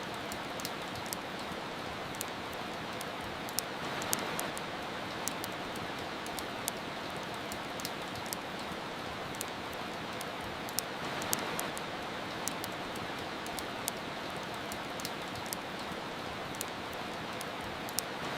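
Steady soft rain, an even hiss that swells slightly twice, with the irregular sharp pops and crackles of a wood fire scattered through it.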